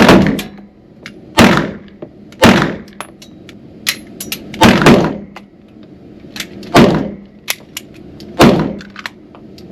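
9mm handgun fired six times in a quick string, a shot every one to two seconds, each crack ringing on in an indoor range.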